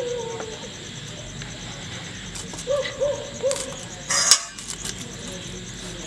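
A bird hooting low: a drawn-out note fading just after the start, then three short hoots, each rising and falling in pitch, about three seconds in. Just after four seconds there is a short crisp noise as a green chilli is cut on a boti blade.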